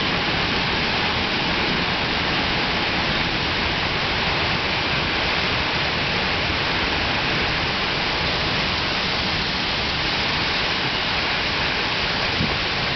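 Heavy rain pouring down in a thunderstorm downpour, a steady, even hiss of rain without breaks.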